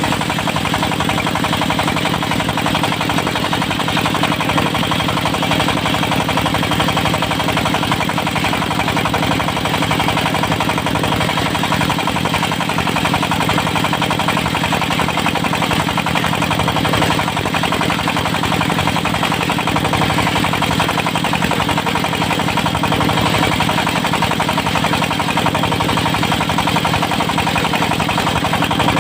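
Diesel engine of a portable circular-blade sawmill running steadily with a fast, even knock.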